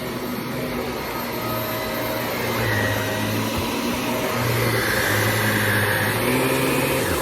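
Shark Navigator NV350 upright vacuum cleaner running, its motor whine rising in pitch through the second half and dropping sharply near the end.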